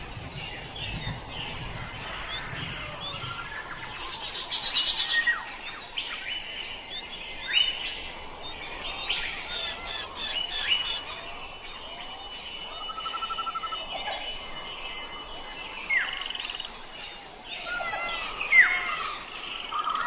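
A chorus of several forest birds calling over one another: short chirps, downward-sweeping whistles and a rapid trill about four seconds in.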